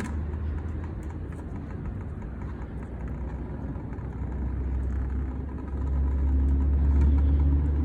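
A low, steady engine-like rumble that grows louder about six seconds in.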